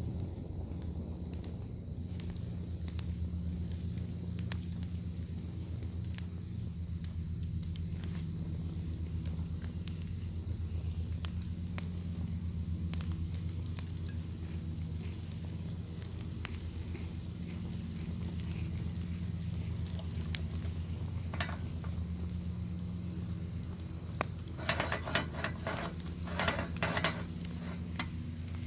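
Bacon sizzling in a pan over a crackling fire: a steady high hiss with scattered sharp pops, over a steady low rumble. Near the end comes a short run of quick, louder crackles.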